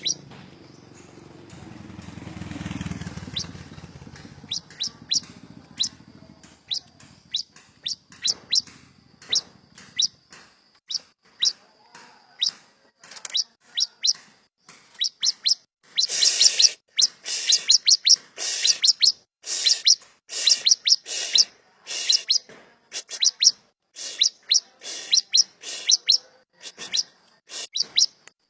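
Prinias (prenjak and ciblek) calling: a fast run of short, sharp, high chirps, several a second, growing louder about halfway through. A low rumble sits under the first few seconds.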